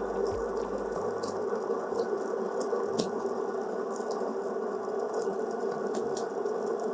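Built-in burr grinder of a Dualit Espressivo Pro espresso machine running steadily, grinding coffee beans into the portafilter, with scattered sharp ticks.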